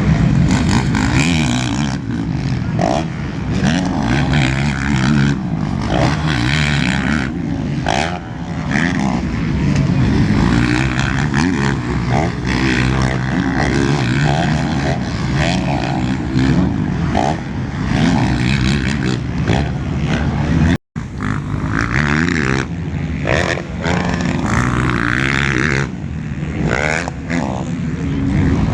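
Motocross motorcycles racing, their engines loud and revving up and down continuously. The sound cuts out completely for an instant about two-thirds of the way through.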